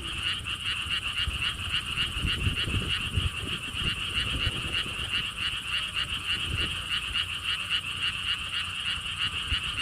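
A chorus of frogs calling, a steady run of evenly pulsed calls, about four pulses a second, with wind rumbling on the microphone.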